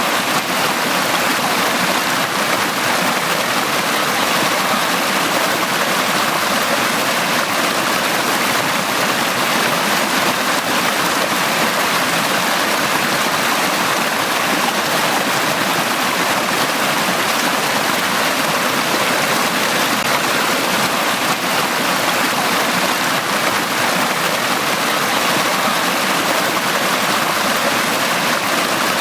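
A small stream running over stones: steady, unbroken water noise.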